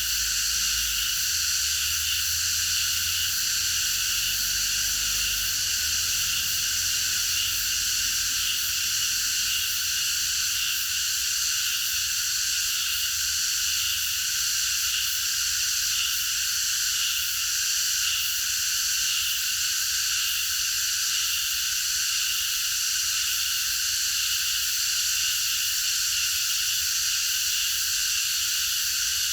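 Many cicadas singing together in a dense, steady, unbroken chorus.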